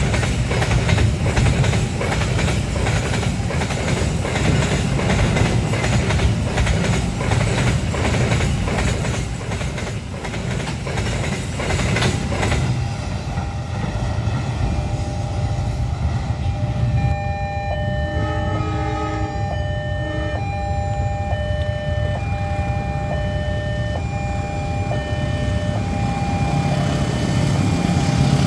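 Container freight wagons rolling past, their wheels clattering steadily over the rail joints. After about 13 seconds the clatter dies away and a level-crossing warning alarm sounds in a repeating two-tone pattern.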